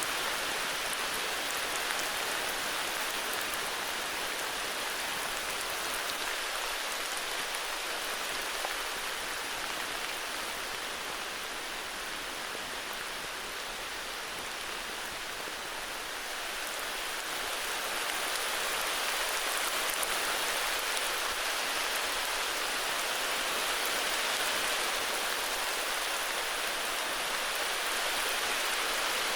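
Steady heavy rain falling, a dense even hiss of drops, easing slightly a third of the way in and building again after the middle.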